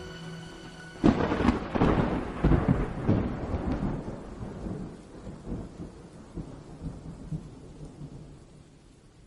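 Thunder: a sudden crack about a second in, then rolling rumbles that die away over several seconds, over a hiss of rain.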